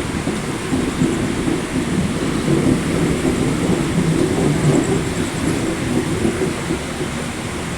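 Suburban EMU local train running on the rails: a steady, fluttering low rumble of wheels and coaches.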